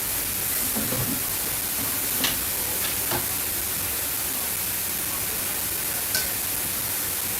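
Steady hissing noise with a few light clicks, about two and three seconds in and again near six seconds.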